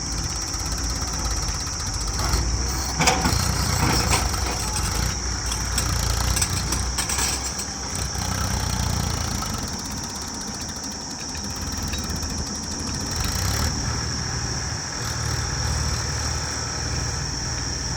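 Tractor engine running steadily, with a few sharp knocks about three to four seconds in.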